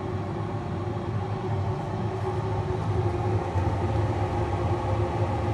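Traeger pellet grill running while it heats up: a steady low rumble and hum from its fan.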